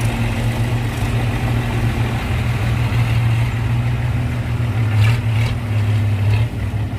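Heavy diesel engine running steadily at a low, even hum, with a couple of brief clatters about five seconds in.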